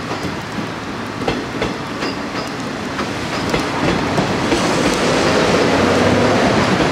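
JR West 115-series electric multiple unit rolling past, its wheels clacking over rail joints. The running noise grows louder over the second half as more cars go by.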